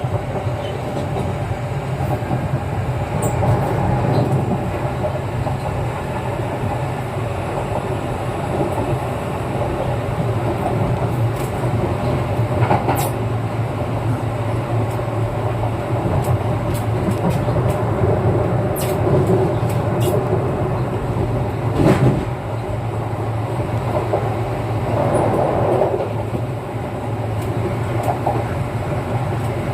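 Running noise inside a Kintetsu 9020 series electric commuter train at speed: a steady rumble of wheels on rail. A few sharp clicks and knocks come through, the loudest about 22 seconds in.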